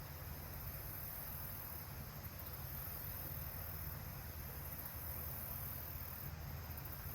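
Steady high-pitched insect chirring over a low, even rumble and hiss.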